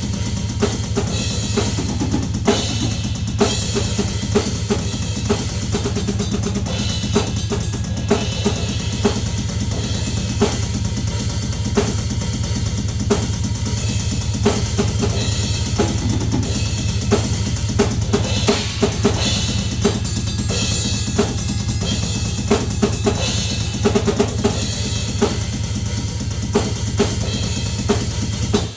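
Drum kit played without a break, a busy run of bass drum, snare and cymbal hits.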